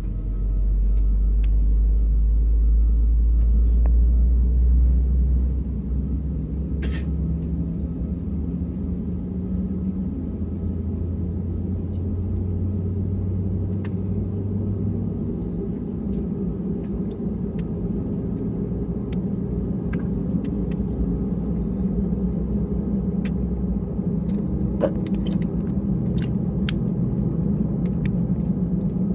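Low, steady rumble of an Airbus A320 heard from inside the cabin, heavier for the first five seconds or so and then settling to a steadier hum. Scattered light clicks and rattles sit over it.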